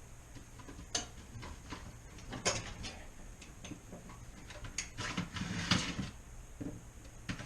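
Putty knife prying and scraping at a refrigerator's drain pan to work it loose: scattered clicks and knocks, then a denser run of scraping and rattling about five seconds in.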